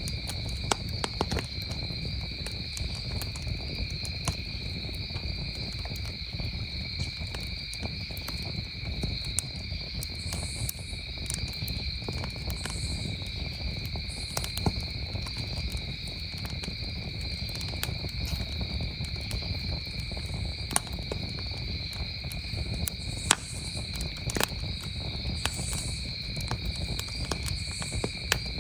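Campfire crackling, with irregular sharp pops, over a steady chorus of crickets trilling.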